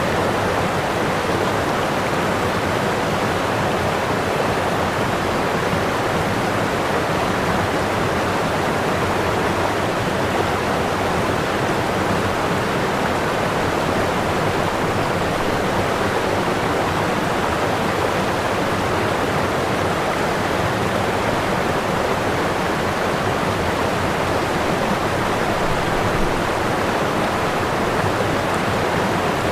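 Waterfall: whitewater pouring over the falls with a steady, unbroken rush.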